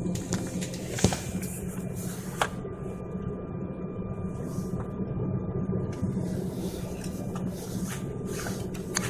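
Airliner cabin noise: a steady low engine hum with a faint steady whine, broken by a sharp knock about a second in and a lighter click a little later.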